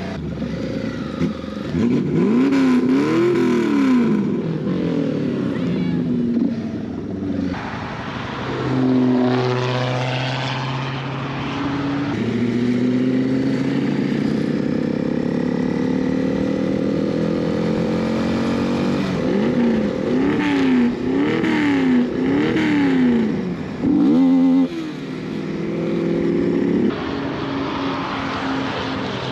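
1965 Ford Mustang engine being revved: two runs of quick throttle blips, pitch jumping up and down several times, a few seconds in and again about two-thirds of the way through. In between, its pitch climbs slowly as it pulls away or accelerates.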